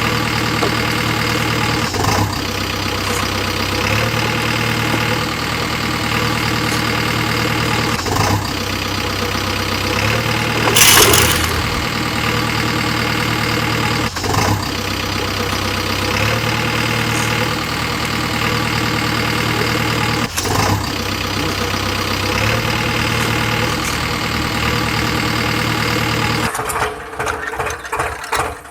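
Engine running steadily at idle, the same pattern coming round about every six seconds with a faint knock each time. There is a short loud hiss about eleven seconds in. The sound changes abruptly near the end.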